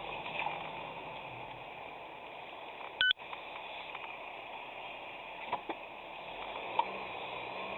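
Steady road and engine noise from a moving car, recorded on a dashcam, with one short, loud electronic beep about three seconds in and a couple of faint clicks later.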